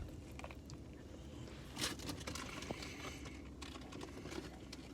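Faint crunching and small clicks of someone biting into and chewing crispy fried chicken, with one louder crunch about two seconds in.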